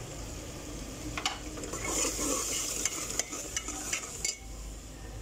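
Masala of browned onion, ground turmeric, red chilli and salt sizzling in ghee in a pot while a ladle stirs it. The ladle knocks and scrapes against the pot about seven times.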